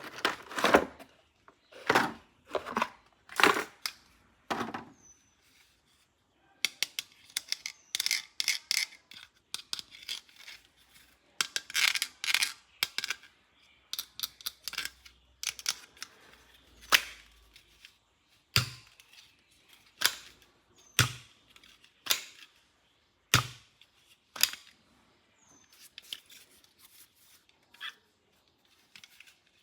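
Plastic toys and packaging being handled: an irregular series of sharp clicks and snaps, some landing with a low knock, with stretches of crinkly rustling in between.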